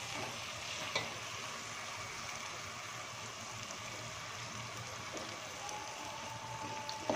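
Keema (minced meat) frying in oil in a pot, a steady sizzle as the oil rises out of the masala during bhuna, with a light knock about a second in.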